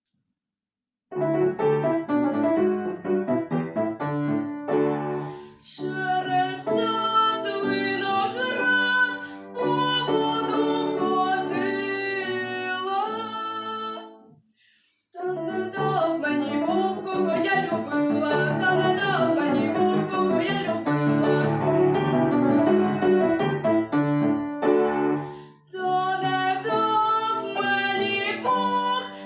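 Piano music, the opening of a song performance, starting about a second in. It breaks off briefly about halfway and dips for a moment near the end.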